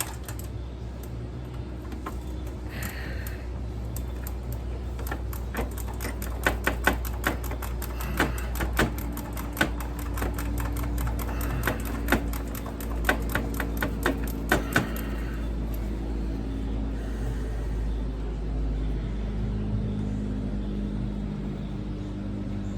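Ratcheting 10 mm wrench clicking in quick runs as valve cover screws are backed out, with a few sharper clicks among them; the clicking stops about two-thirds of the way through. A steady low hum runs underneath.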